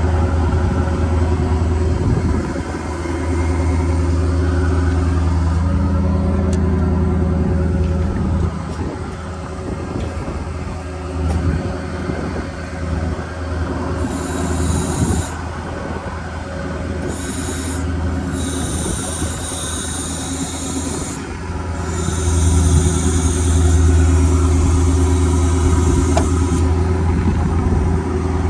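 Ford 6.7L Power Stroke V8 turbo-diesel engine running steadily, getting louder about three-quarters of the way through, with a high hiss that comes and goes in the second half.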